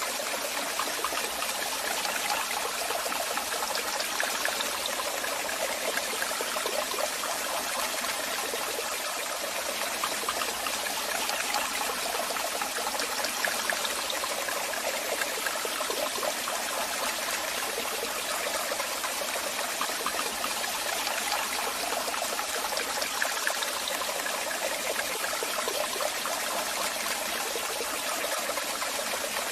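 Waterfall running: a steady rush of falling water with a fine splashing texture, mostly in the upper range.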